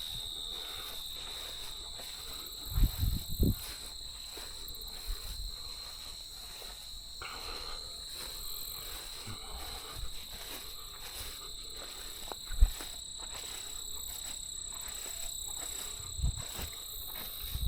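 Steady high-pitched chorus of crickets or similar field insects, with a few short low thumps from handling or footsteps.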